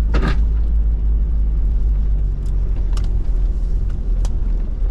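Toyota LandCruiser Troop Carrier's engine running with a steady low rumble, with a few light clicks around the middle and near the end.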